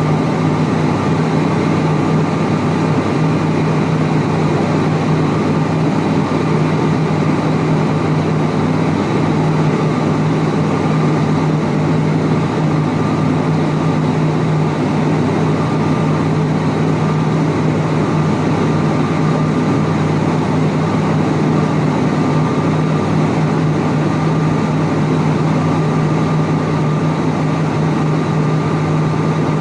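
Inside the cabin of an ATR42-600 in flight, its Pratt & Whitney PW127M turboprop engines and propellers drone steadily. The sound is a strong, even low hum, with a fainter higher whine over a steady rush of noise.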